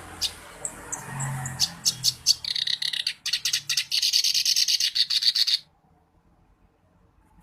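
Reed warbler (kerak basi) singing: a few sharp separate notes that speed up into a fast, dense chatter, which stops abruptly about five and a half seconds in.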